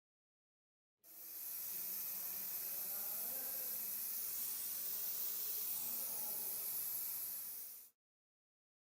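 A steady spray hiss, from a pressurised spray or air jet, that starts about a second in, runs evenly for about seven seconds and cuts off abruptly.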